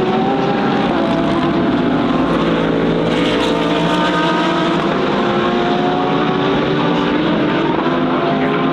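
Several GT3 race car engines running at once, their pitch rising as they accelerate, with no gaps in the noise.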